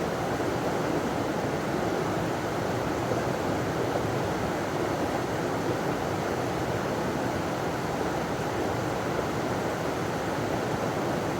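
River water pouring over a small waterfall, a steady rushing with no let-up.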